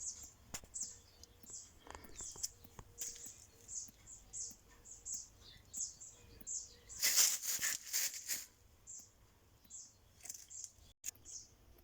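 Small bird chirping repeatedly, short high chirps about twice a second, with a louder burst of rustling or wing-flapping about seven seconds in.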